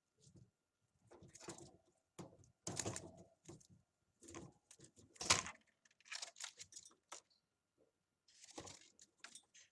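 Budgie chicks shuffling and scratching about in the nest: irregular scratchy rustles and small clicks, with the loudest scrape a little past halfway.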